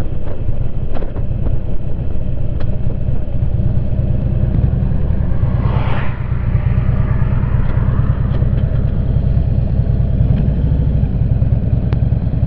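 Motorcycle engine running steadily under way, heard from the rider's seat. There is a brief rush of higher-pitched noise about six seconds in.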